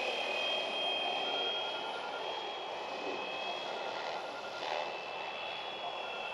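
Fly Wing 450L V2.5 electric RC helicopter in flight: a steady high motor whine over the hiss of the spinning rotor blades.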